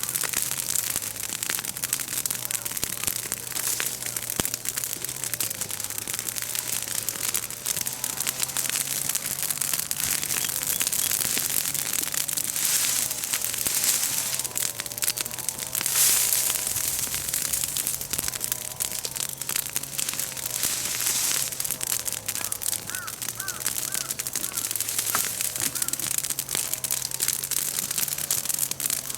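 A bonfire of green leaves and twigs from a freshly broken chestnut tree crackling and popping hard, with a dense, fast run of pops throughout.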